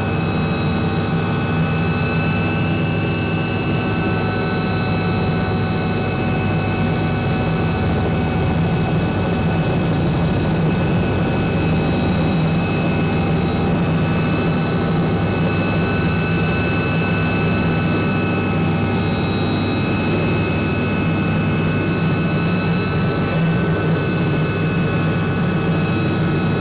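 Turbine helicopter running steadily: a constant engine and rotor noise with several steady whining tones over a low hum.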